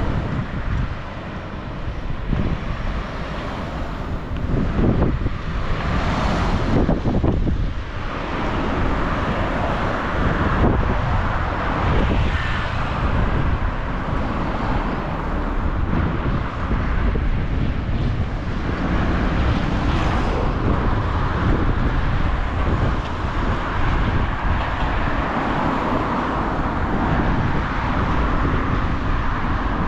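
A Mercedes-Benz car driving, with steady road and wind noise.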